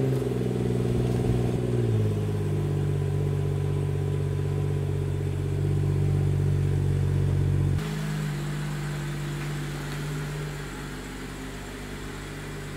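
BMW 440i's B58 3.0-litre turbocharged straight-six, just started and idling from the exhaust. The idle is raised at first and settles lower about two seconds in. About eight seconds in the sound changes abruptly and the idle carries on quieter.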